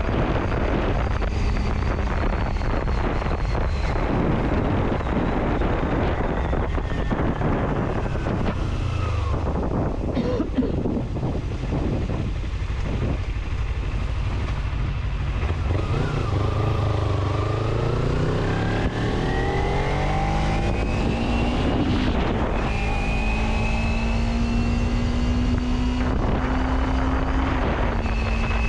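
A motor vehicle driving in rain, with steady road and wind noise throughout. The engine note drops about a third of the way in, then climbs steadily in the second half and settles into stepped, steady pitches near the end.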